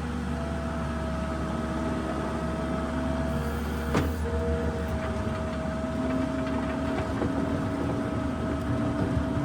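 New Holland LS170 skid steer's diesel engine running steadily with a high whine as the machine drives, and a single clank about four seconds in.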